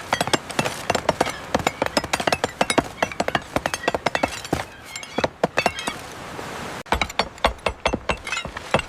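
Construction work: many overlapping knocks, taps and clinks of hammering and hand tools, several a second, with a brief steady hiss about six seconds in.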